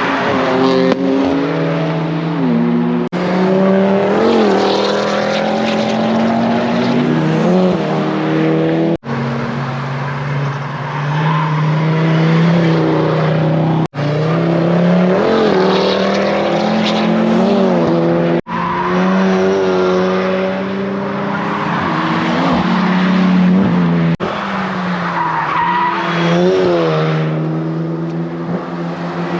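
Car engines held at high, steady revs with quick rev blips, over a hiss of skidding, squealing tyres. The sound comes in several short clips with abrupt cuts between them.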